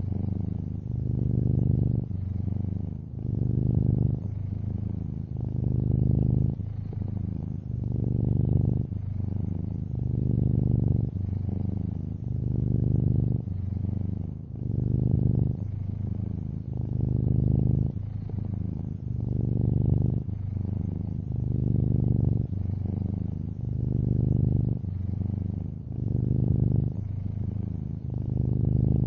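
A long-haired orange tabby cat purring steadily. The low purr swells and fades with each breath, about one cycle every two seconds.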